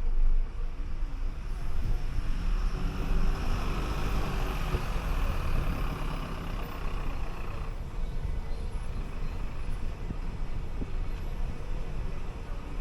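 City bus running, with a steady low engine rumble and road noise. A higher rushing noise swells from about two seconds in and stops abruptly about eight seconds in.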